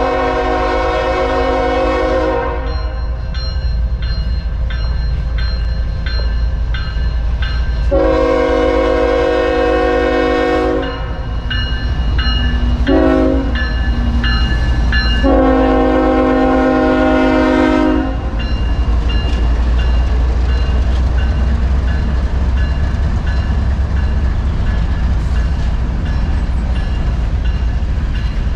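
Diesel locomotive's multi-note air horn sounding the grade-crossing pattern: a long blast that ends about two seconds in, then another long, a short and a final long blast. Under it the loaded rumble of the passing train runs on, with rhythmic clicking of wheels over the rail joints.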